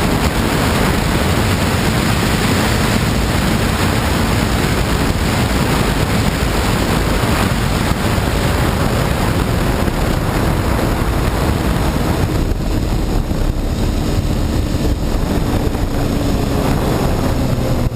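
Steady wind rushing over the microphone on a moving motorcycle, with the Honda CBR954RR's inline-four engine running faintly underneath. A low engine tone shows through more clearly near the end.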